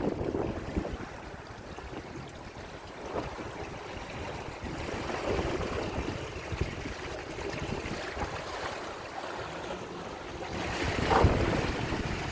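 Wind buffeting the microphone and water washing along the hull of a sailboat under way, with a louder surge about eleven seconds in.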